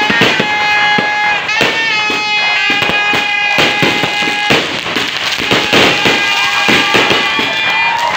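Aerial fireworks bursting overhead: a rapid run of bangs and crackles, about two or three a second, with no break.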